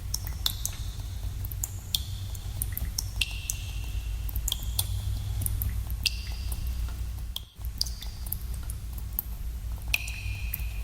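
Water drops falling into a cave pool: irregular plinks, about one or two a second, each with a short pitched ring, over a steady low rumble. The sound drops out for an instant about seven and a half seconds in.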